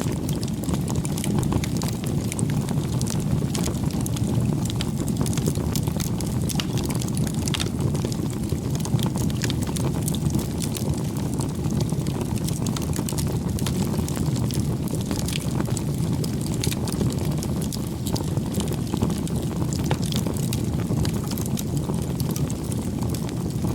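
Campfire burning: a steady low rumble of flames with frequent small crackles and pops from the burning wood.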